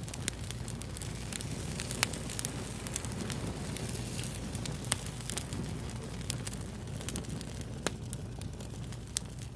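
Wood fire crackling: irregular sharp pops and snaps over a steady low rumble, with one louder pop about two seconds in.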